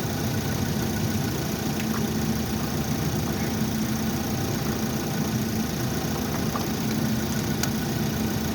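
Engine idling steadily with a constant low hum, with a few faint clicks over it.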